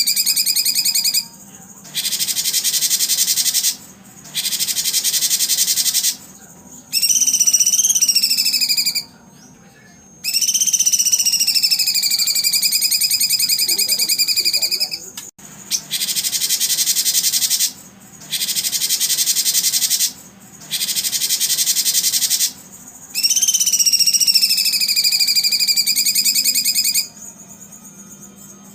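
Songbird song in repeated phrases a couple of seconds long, with short pauses between them. Clear, wavering whistles alternate with dense, rapid, buzzy trills.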